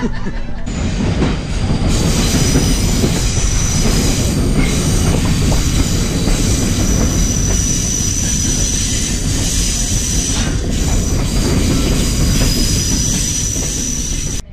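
Passenger train car rolling along the track, heard from aboard: a steady heavy rumble of wheels on rail, joined about halfway through by a thin, steady, high wheel squeal.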